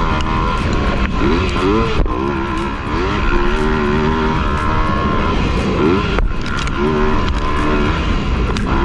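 Motocross bike engine revving up and down as it is ridden, its pitch rising and falling several times.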